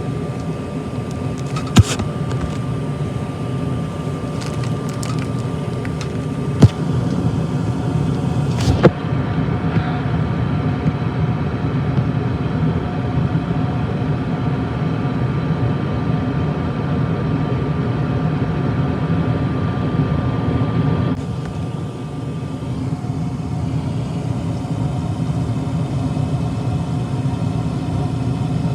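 HVAC equipment running with a steady low rumble and a thin steady whine, with a few sharp clicks in the first several seconds. About two-thirds of the way through, the whine and the hiss above it cut off, leaving the low rumble.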